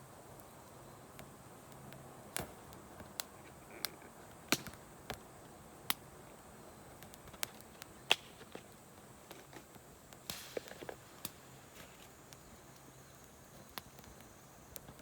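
Wood campfire crackling: irregular sharp pops and snaps from the burning wood, a few louder ones about four and a half and eight seconds in and a small burst of them around ten seconds, over a quiet steady background.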